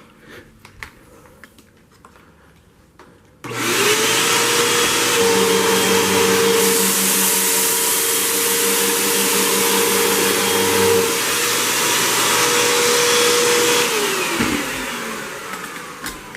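Hoover WindTunnel Whole House upright vacuum switched on about three and a half seconds in, its motor spinning up to a steady high whine while it makes a forward-and-back pass over a pile of cat litter on carpet. It is switched off near the end and winds down, its pitch falling away.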